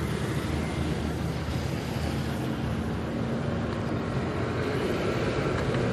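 Steady low rumble of a vehicle engine, with no sharp events.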